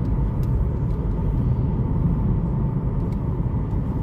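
Steady low rumble of a car driving, its road and engine noise even throughout.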